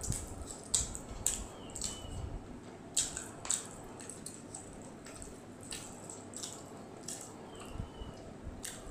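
Close-up wet chewing and lip smacks of a person eating fried rice by hand: a string of irregular sharp mouth clicks, with no speech.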